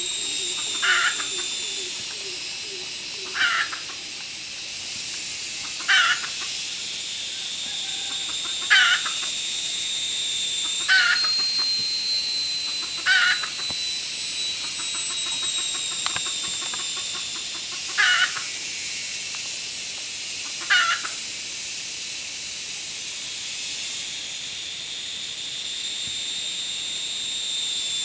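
Wild chicken calling: short chicken-like calls repeated about eight times, every two to three seconds, over a steady high-pitched hiss.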